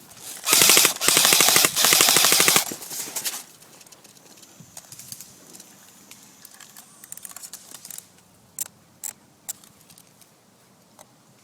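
Airsoft gun firing on full auto, three quick bursts of rapid shots close by, as covering fire for a teammate's run. A few scattered single shots follow later.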